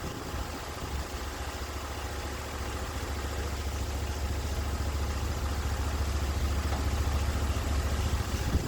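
Portable sawmill's engine running steadily, its low hum growing slowly louder through the middle of the stretch.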